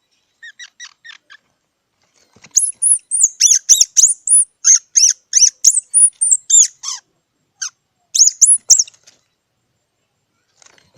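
A squirrel calling with a rapid run of short, high-pitched squeaky chirps, about three to four a second, after a fainter quick set at the start; a last pair of chirps comes near the end.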